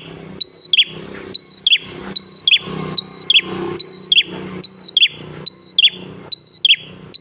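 Prenjak (prinia) singing a fast repeated phrase, a steady high note followed by a quick falling note, over and over at a little more than one phrase a second.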